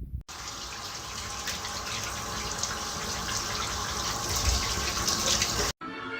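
Steady rush of running water, like a tap running, growing slightly louder; it starts and stops abruptly.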